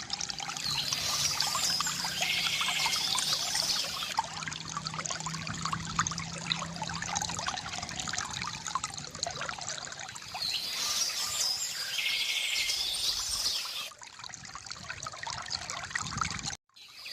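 Water trickling and splashing from a bamboo fountain spout, with a bird singing twice, in two spells of song. The sound cuts out for a moment near the end.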